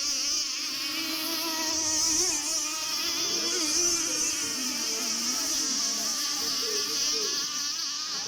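Several 26cc two-stroke RC racing boat engines running at speed, a high buzzing whine whose pitch wavers up and down as the boats race and turn.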